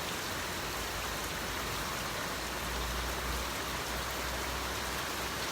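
Steady rain falling, an even, unbroken hiss of rain on the ground and surfaces.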